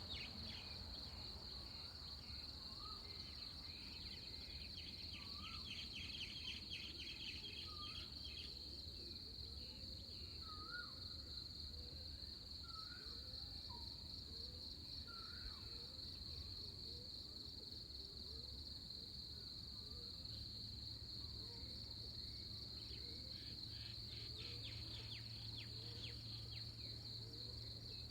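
Pre-dawn countryside ambience: a steady high-pitched insect drone with scattered bird calls. Short, curling whistled notes come every second or two through the first half, and rapid chattering trills come twice. A low rumble runs underneath.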